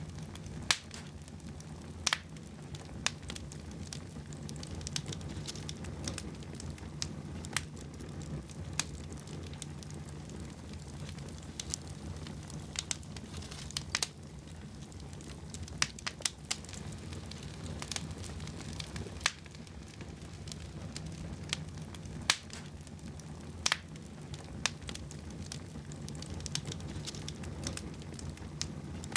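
Fire burning in a fireplace: a steady low rushing with irregular sharp crackles and pops, a few of them loud snaps.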